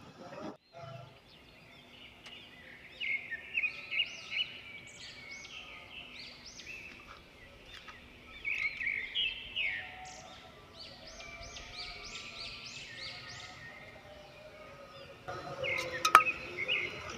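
Birds chirping: rapid runs of short rising calls, some overlapping, over a faint steady hum. A sharp click comes near the end.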